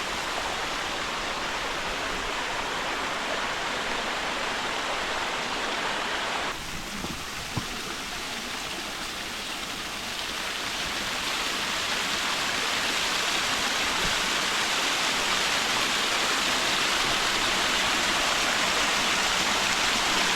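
Multi-level waterfall splashing: a steady rush of falling water. It drops away suddenly about a third of the way in and grows louder again through the second half.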